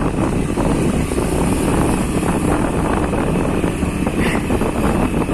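Steady, loud wind buffeting the microphone of a riding motorcycle, with the motorcycle running underneath.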